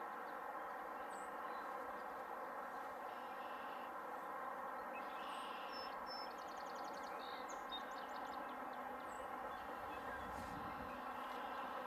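Steady distant rumble of a GO Transit commuter train passing, with a little more low rumble near the end. Small birds chirp a few times over it, and there is a short rapid trill about six seconds in.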